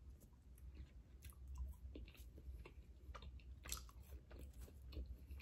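Faint, close mouth sounds of someone chewing a soft, moist peanut butter cookie: scattered small wet clicks and smacks.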